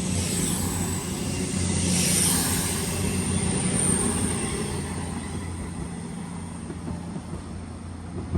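CrossCountry Class 221 Voyager diesel-electric multiple unit pulling out of the station, its engines running with a steady low hum. The sound is loudest a few seconds in and then slowly fades as the train draws away.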